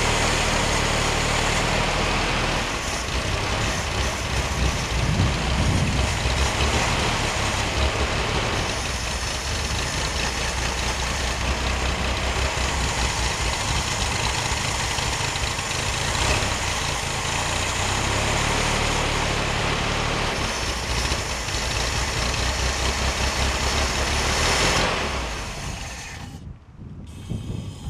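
1966 Corvair's air-cooled flat-six running at idle while it ingests carbon-cleaning foam sprayed into the intake, blowing white smoke. About 25 seconds in the engine dies down and stops.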